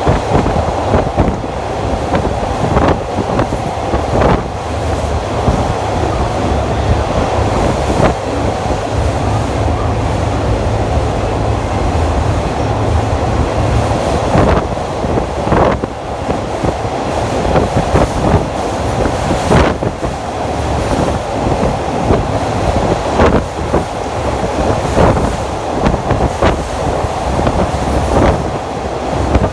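A train running on rails, heard from an open-air trolley car: a continuous rumble and rush of noise with sharp wheel clacks over rail joints at irregular intervals.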